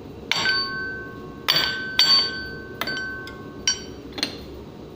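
Mallet tapping the pump motor's back end cover about six times to loosen it from the housing; each strike rings briefly with a metallic clink.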